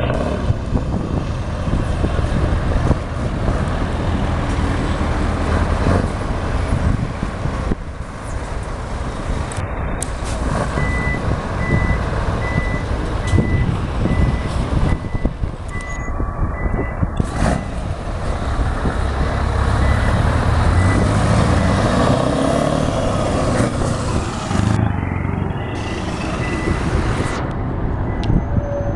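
Truck engines running, with a reversing alarm beeping at an even rate from about a third of the way in until near the end.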